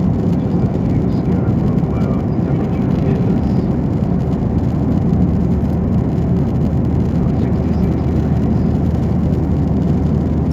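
Steady cabin noise of a Boeing 737-900ER airliner in flight, heard from inside the economy cabin: an even, unbroken low rumble of engines and airflow.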